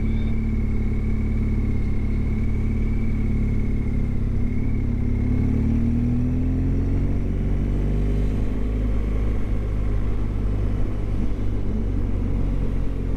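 BMW GS motorcycle engine running steadily under the rider, with road and wind noise; its pitch climbs a little about six seconds in.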